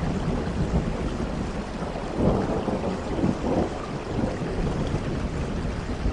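Steady rain with a low rumble of thunder underneath, swelling about two seconds in and then easing.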